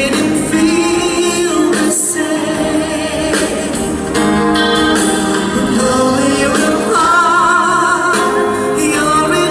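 A 1980s love song performed live: a singer over band accompaniment with keyboards, ending on a held note with vibrato.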